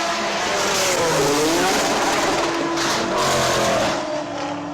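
Race car engines running at speed under heavy road and tyre noise. The engine pitch dips about a second in, then climbs again.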